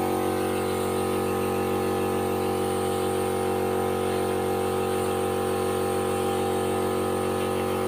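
Steady hum of a running motor, holding one even pitch without change.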